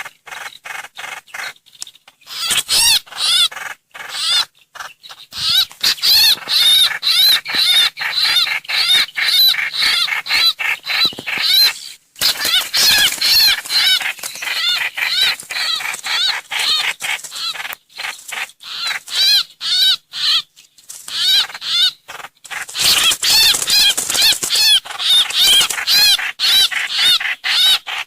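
Trao trảo bird lure-call recording: fast runs of sharp, repeated arched chirps, several a second, broken by short pauses. This is the 'hoành hoạch' call type used as a lure call.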